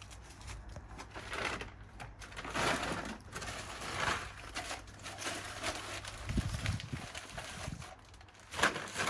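Rustling and scraping of bird-seed containers and feed being handled, in several short bouts.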